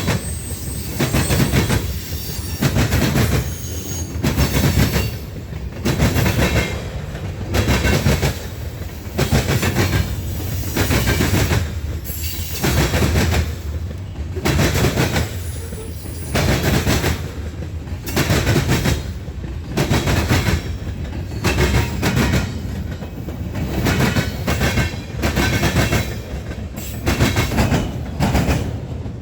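Train cars rolling past, their wheels clattering over rail joints in a steady repeating rhythm, a loud burst about every second and a half to two seconds.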